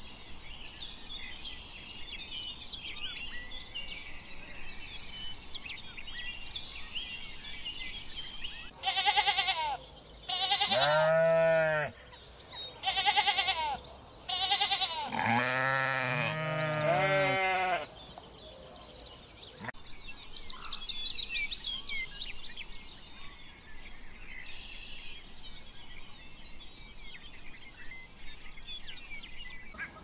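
An animal calling loudly about five times in the middle of the stretch, each call rising and falling in pitch, over a steady background of high chirping.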